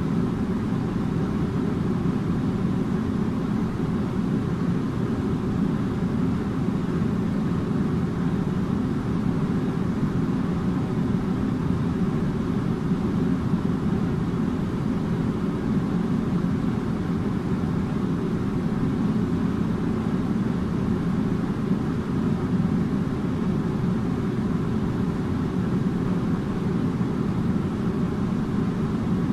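Air conditioner running with a steady low hum and rush of air, unchanging throughout.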